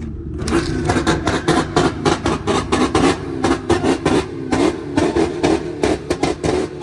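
Car engine revved hard and repeatedly, with a rapid string of sharp exhaust pops and crackles over the engine sound.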